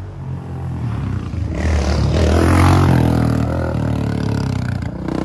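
Dirt bike engine running under throttle, growing louder to a peak about halfway through, then easing off.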